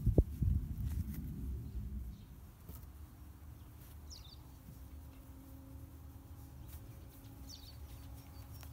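Faint bird chirps, twice, over quiet outdoor ambience, with a low rumble and a sharp knock in the first two seconds.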